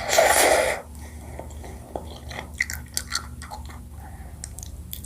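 Close-miked chewing of honeycomb: wet, sticky mouth clicks and small crackles of wax. A short, loud rush of noise comes in the first second.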